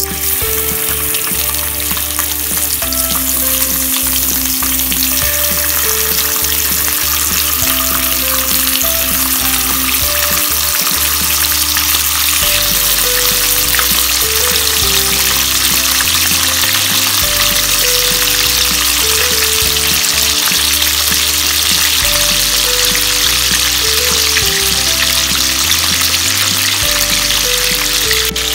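Raw chicken wings frying in shallow hot oil in a nonstick frying pan: a steady sizzling hiss that starts suddenly as the first wing goes in. Background music plays quietly underneath.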